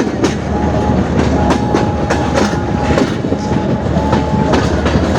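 Passenger train coaches rolling along the track, wheels clicking over rail joints and points. A thin high squeal comes and goes twice.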